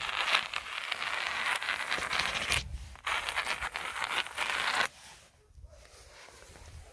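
Snow crunching underfoot in two long, dense stretches with a short break about two and a half seconds in. It turns much quieter about five seconds in.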